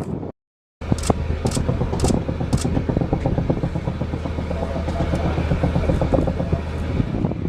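Steady engine drone with a strong low hum, after a brief dropout to silence at the start. A few sharp clicks come about half a second apart in the first two seconds.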